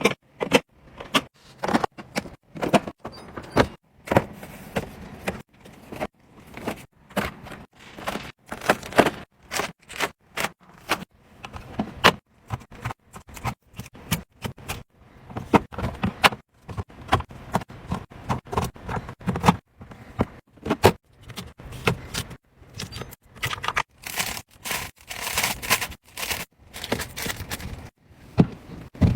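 An irregular run of clicks, knocks and rustles from food packaging and containers being handled and set down on fridge shelves.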